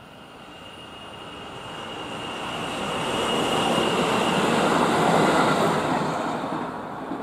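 Electric commuter train approaching and passing close by on the rails: running noise and wheel-on-rail rumble swell to a peak about five seconds in, then die away near the end.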